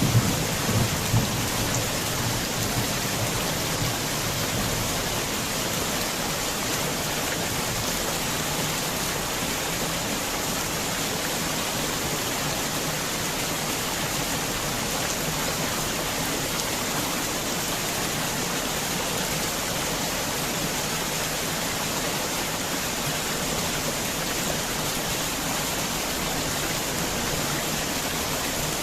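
Heavy rain falling in a steady, even hiss, with a low rumble dying away over the first couple of seconds.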